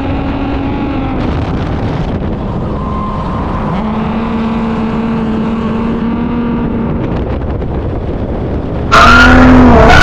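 Car engines running on track during drift driving, their pitch holding and then gliding up and down with the revs. About nine seconds in, a sudden, much louder sound cuts in.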